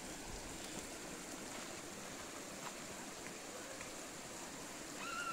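Faint, steady rush of running water, like a small stream, with a short high call near the end.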